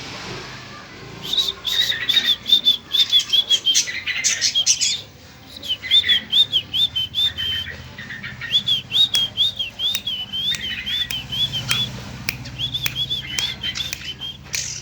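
Young long-tailed shrike calling: runs of short, rapidly repeated high chirps on nearly the same pitch, broken by brief pauses, with a few sharp clicks between them.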